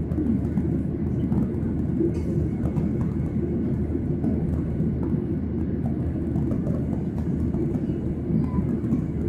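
Cabin noise inside a Boeing 737-800: a steady low rumble of the CFM56 jet engines and airframe, with faint ticks and rattles.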